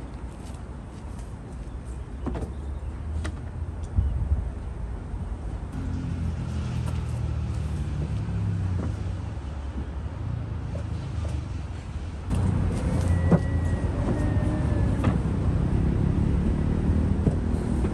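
Motor vehicles running and passing, a low engine rumble that grows louder about two-thirds of the way through.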